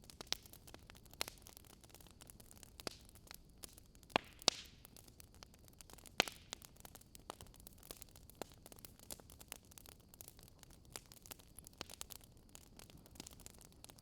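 Wood fire crackling: irregular sharp pops and snaps over a soft steady hiss, with a few louder snaps about four and six seconds in.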